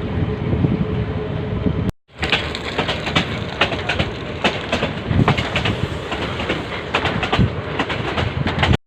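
Train carriage running on the rails: a low rumble, then, after a short break about two seconds in, a rattling clatter of many sharp knocks and clicks.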